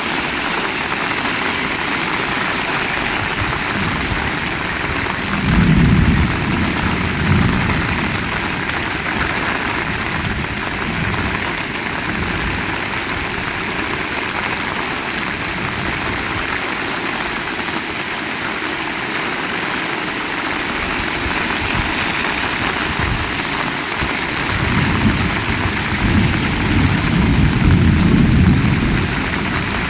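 Heavy rain falling steadily, with low rumbles swelling about six seconds in and again near the end.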